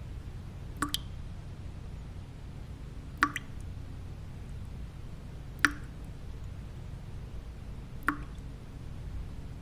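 Single water drops falling at an even pace, about every two and a half seconds, each a short plop, over a steady low white-noise rumble.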